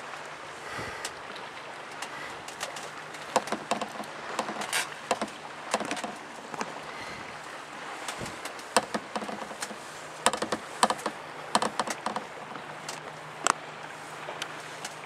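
Water slapping against a small boat's hull in irregular knocks and clicks, over a steady background hiss and a faint low hum.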